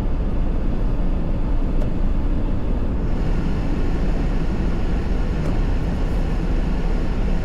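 Steady road and engine rumble inside a moving car's cabin, with an even tyre hiss that grows a little brighter about three seconds in.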